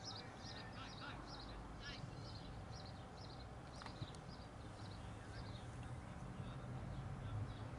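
A small bird chirping over and over, short high chirps at roughly two or three a second, faint against open-air background noise and distant voices. There is a single faint sharp tick about four seconds in.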